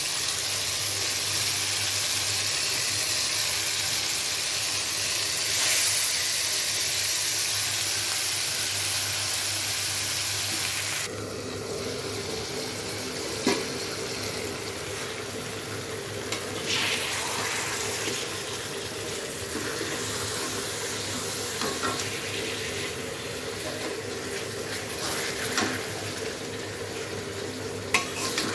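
Boal fish pieces sizzling loudly in hot tomato masala in a steel wok. About eleven seconds in the sizzle stops abruptly, leaving a quieter cooking sound with a steady low hum, broken by a few short knocks of a spatula against the wok.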